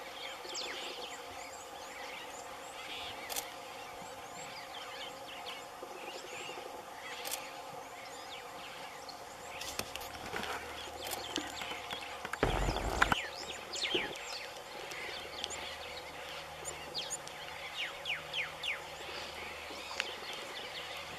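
Many short bird chirps and calls over a steady hum, with a brief loud burst of low noise about twelve and a half seconds in.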